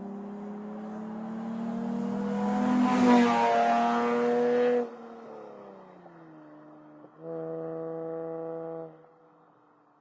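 A horn-like droning tone that slowly rises in pitch and grows louder, then cuts off suddenly about five seconds in. A fainter falling glide follows, then a second, shorter steady tone about seven seconds in.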